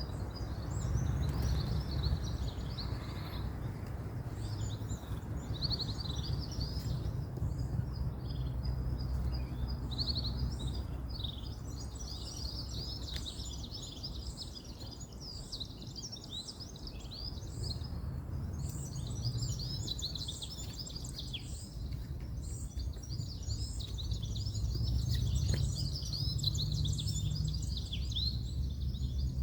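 A dense chorus of small birds chirping and twittering rapidly throughout, over a low rumble of distant road traffic that swells, eases off in the middle and swells again.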